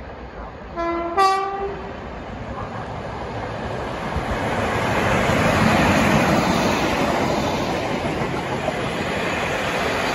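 Two-tone horn of a Class 73 locomotive sounding briefly about a second in, a lower note then a higher one, followed by a Class 73-hauled test train passing through. Its wheel and rail noise builds up, is loudest about six seconds in, and stays loud.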